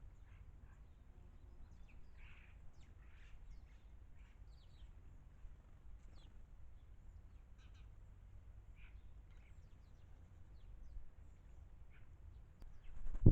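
Garden birds chirping and calling in short, scattered notes over a steady low outdoor rumble, ending with a sudden loud thump.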